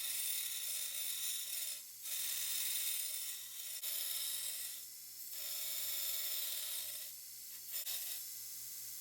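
Steel knife blank being cut or ground with an abrasive tool, a harsh hissing scrape in long passes broken by short pauses about two, five and seven and a half seconds in.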